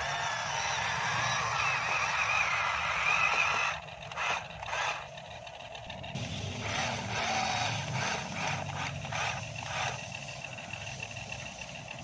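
Remote-controlled long-reach model excavator (Sumitomo S280 replica) working, its electric motors whining and wavering in pitch. The whine is loudest for the first few seconds, drops away about four seconds in, and returns more softly a couple of seconds later.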